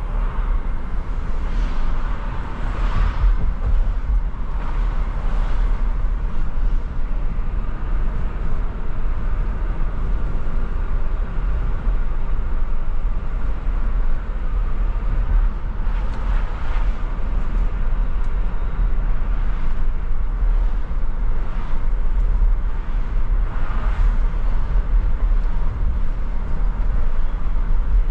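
A car driving on city streets: a steady, loud low rumble of road and engine noise, with a few brief swells of rushing noise.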